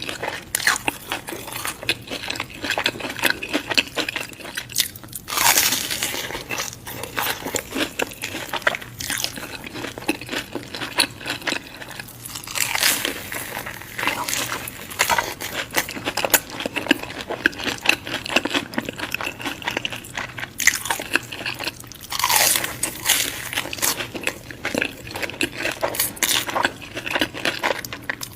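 Close-miked ASMR eating: a person biting into and chewing crunchy food, with a dense crackle of crunches and louder crunching bites about 5, 13 and 22 seconds in.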